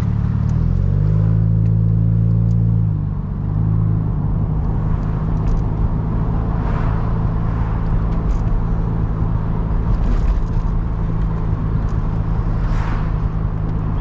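Car engine and road noise while driving: the engine note rises in pitch about a second in, holds, and falls away about three seconds in, then runs steadily.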